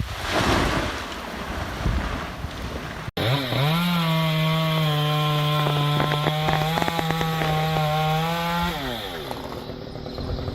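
Two-stroke chainsaw revving up to full throttle about three seconds in, holding a steady high pitch for about five seconds while it cuts through wood, then dropping back toward idle near the end. Before that there are a few seconds of rough, noisy sawing that break off suddenly.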